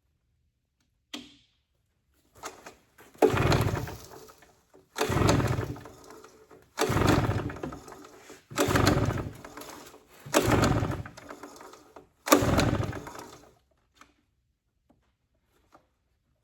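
Husqvarna 150BT backpack leaf blower's two-stroke engine being pull-started on its recoil cord six times at an even pace, turning over with each pull but not catching. The owner finds it getting spark but not fuel.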